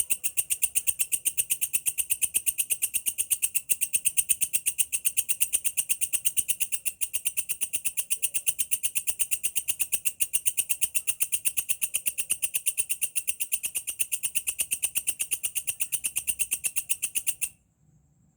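Walang kekek bush cricket calling: a fast, even, high-pitched pulsing chirr that cuts off suddenly near the end.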